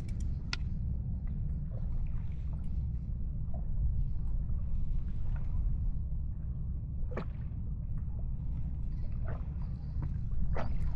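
Steady low rumble with a few short sharp knocks or splashes scattered through it.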